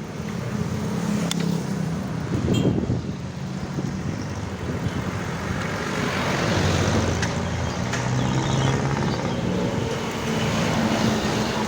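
Road traffic: vehicle engines running close by over a steady hiss of tyres and street noise.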